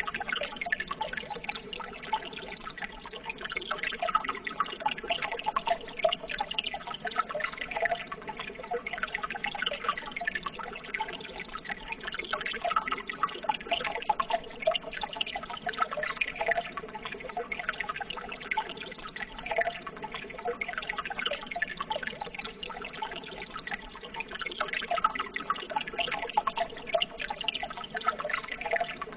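Water trickling and babbling steadily, a dense patter of small drips and splashes without pause.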